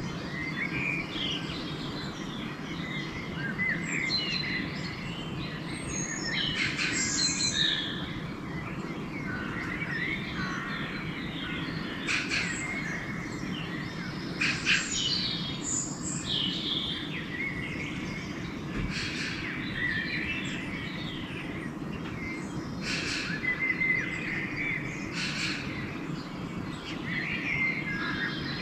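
Several songbirds chirping and singing in a dawn chorus, short overlapping calls and trills throughout, over a steady low background noise.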